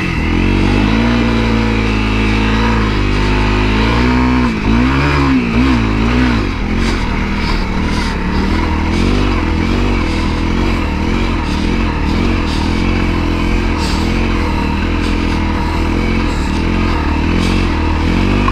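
Honda CRF250L's single-cylinder four-stroke engine revving hard in first gear under heavy load on a steep sandy hill climb, the revs surging up and down again and again, with a sharp dip about four and a half seconds in. The engine is short of power for the climb.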